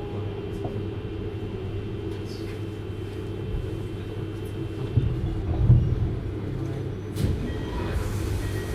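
Cabin running noise of a JR Hokkaido 733 series electric train: a steady rumble with a low, even motor hum. A few heavier thumps come around the middle, and a sharp click about seven seconds in.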